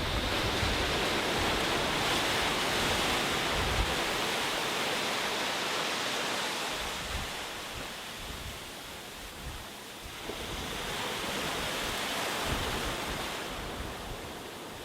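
Sea surf washing onto a beach: a steady rush of breaking waves that eases off midway and builds again, with low gusts of wind buffeting the microphone.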